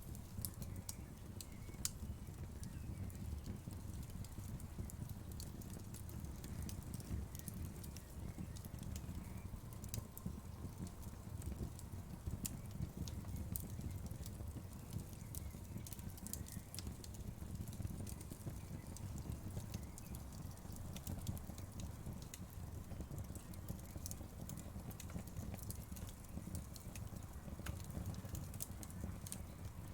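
Wood fire burning in a fireplace: a steady low rumble of the flames with frequent irregular crackles and pops from the burning wood.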